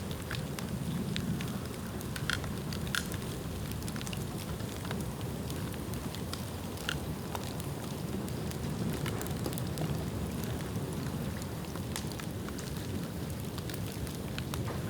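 Bonfire of dry bamboo burning, with a steady low rush of flame and scattered sharp crackles and pops at irregular intervals.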